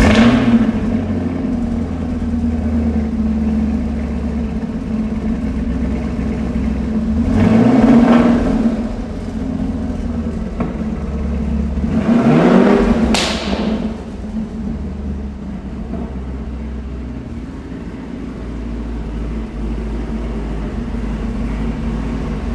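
2016 Chevrolet Camaro SS's 6.2-litre V8 through an aftermarket exhaust, just started and settling from its start-up flare into a steady idle. It is revved twice, about eight and thirteen seconds in, dropping back to idle after each.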